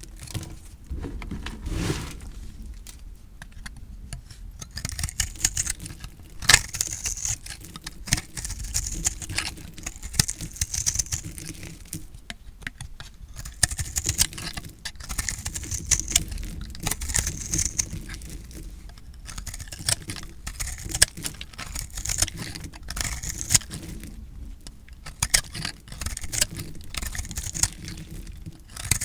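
A blade cutting through dry recycled soap: crisp crunching and crackling made of many small clicks, coming in repeated strokes about every second or two.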